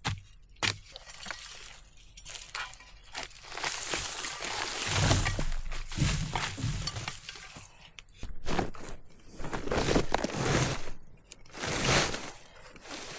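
Irregular rustling and crunching with scattered sharp clicks and knocks, coming in bursts of a second or two.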